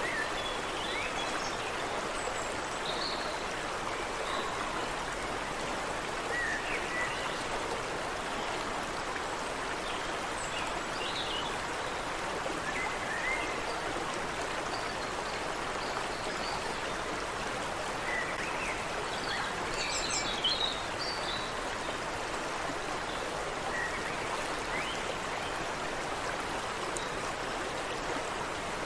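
Stream water running steadily, with short bird chirps here and there and a brief flurry of higher calls about twenty seconds in.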